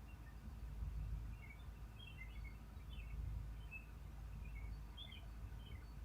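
Small birds chirping: short, quick chirps scattered throughout, over a steady low rumble.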